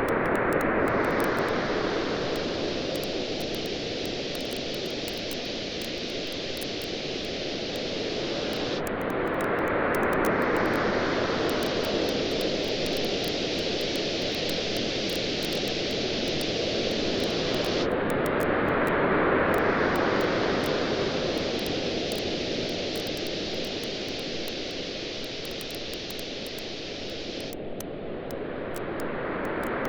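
Ocean waves washing in, swelling and falling about every nine seconds, with a campfire crackling in many small sharp pops throughout.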